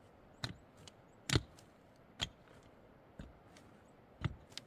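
Sharp knocks struck about once a second, six in all, the loudest about a second and a half in.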